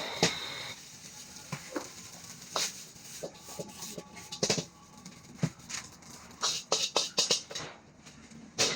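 A metal spatula clanking and scraping in a wok while rice is stir-fried, in irregular knocks.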